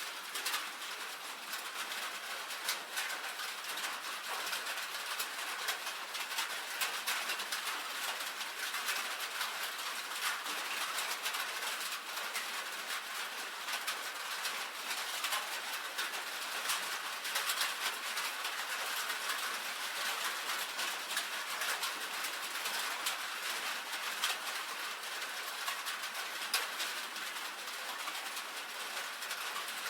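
Rain falling steadily on a tin roof: a dense, even patter of many small drops ticking on the sheet metal, with no low rumble.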